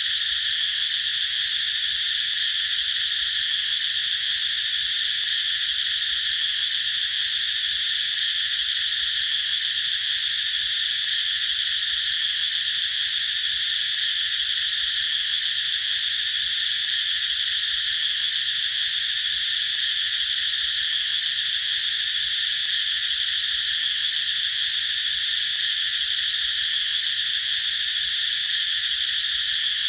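Cicadas calling in a steady, continuous high-pitched drone.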